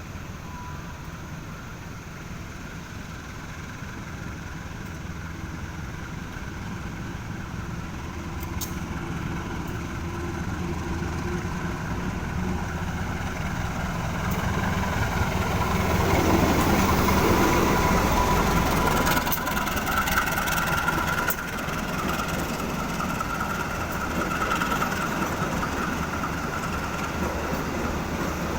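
Diesel locomotive of a passenger train pulling slowly out of a station, its engine running steadily and growing louder to a peak about two-thirds of the way through, then easing a little.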